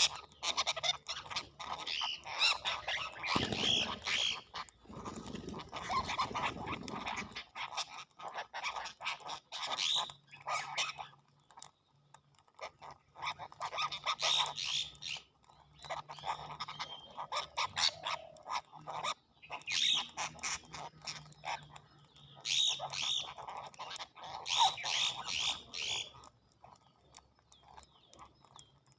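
Birds calling in repeated bursts of chirps and squawks, a few seconds apart, dying away near the end.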